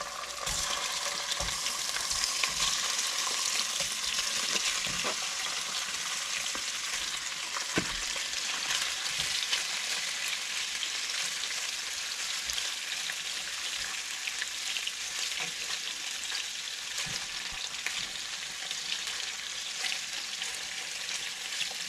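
Ribs frying in a hot pan: a steady sizzle, with occasional light clicks of a utensil against the pan.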